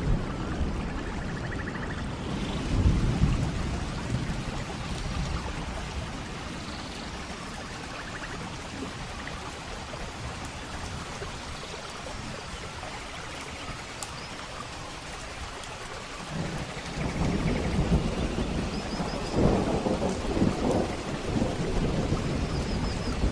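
Steady rain with thunder rumbling low: a short rumble a few seconds in, then a longer, louder roll through the second half.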